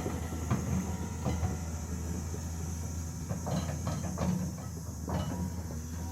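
Diesel engine of heavy road-building machinery running steadily, with scattered knocks and clatter as logs are handled.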